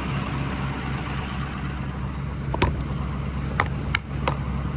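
Diesel truck engine idling steadily, with a few sharp taps in the second half as a small shovel knocks ice off the windshield.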